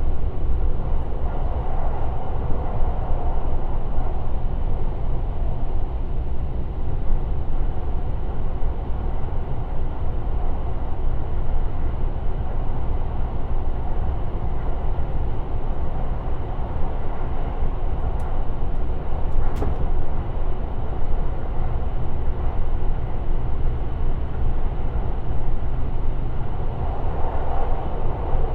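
Limited Express Shirasagi electric train running at speed: a steady rumble of wheels on rail, heard from inside the passenger car, with a few faint ticks a little past the middle.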